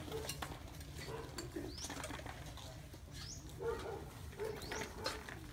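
Birds calling: three upward-sweeping calls about a second and a half apart, with short low calls in between, over a steady low hum.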